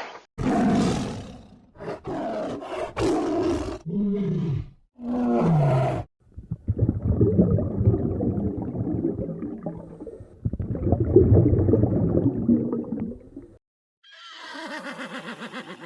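A string of separate animal calls cut one after another. First come several short calls and two low calls that fall in pitch, then a long, rough, low call, and near the end a pulsing higher call.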